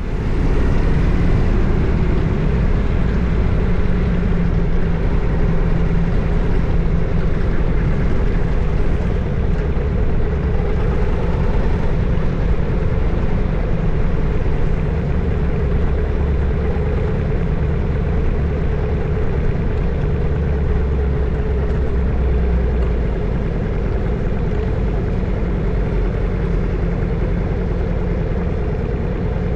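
Harley-Davidson Evolution 1340 cc air-cooled V-twin running steadily while the motorcycle is ridden, a deep low rumble from the stock exhaust.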